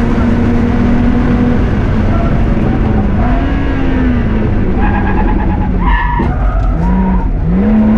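BMW 325i E30's straight-six engine under rally driving, holding steady revs, then rising and falling, with a sharp drop about six seconds in and climbing again near the end. It runs over heavy road and tyre noise.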